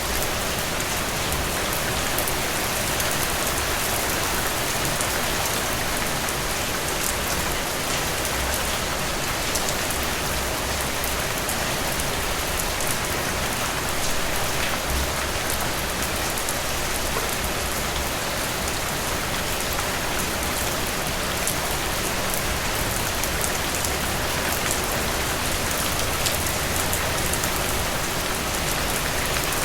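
Steady rain, an even hiss with a fine patter of individual drops.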